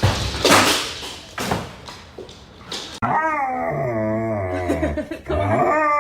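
A dog making long, wavering, howl-like moans from about halfway through, sliding down in pitch, after a few seconds of noisy scuffling.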